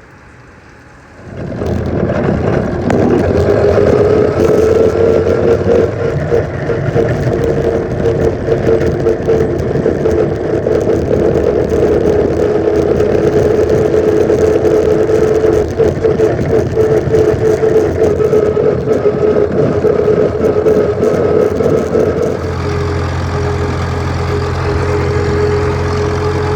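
Farmall M tractor's four-cylinder engine running steadily under way, coming in about a second in with a held droning note. Near the end the sound shifts to a lower, steadier hum.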